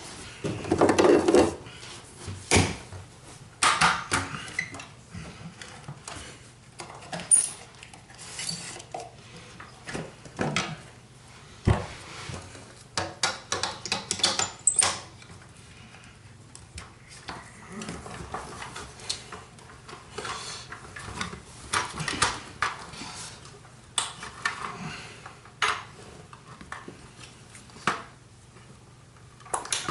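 Clicks, knocks and rattles of hard plastic and metal parts being handled as a Kirby Heritage II vacuum is taken apart and converted for attachment use.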